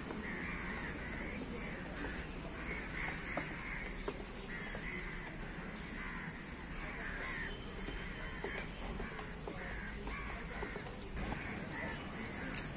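Birds calling over and over: a quick run of short calls, one after another and overlapping, over a steady low background rumble.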